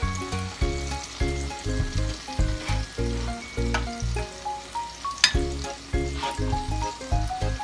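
Ahi tuna steak sizzling in a pan of sauce and onions, with a spatula moving through the pan now and then. Background music with a melody of short stepping notes over repeated bass notes plays throughout.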